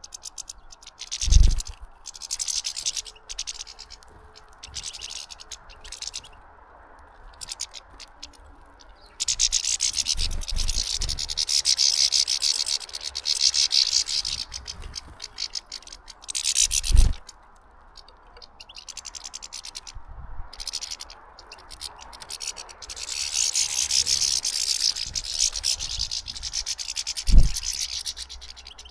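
A flock of European goldfinches twittering at a feeder, in long bursts of fast, high, tinkling chatter. Three short low thumps stand out as the loudest sounds.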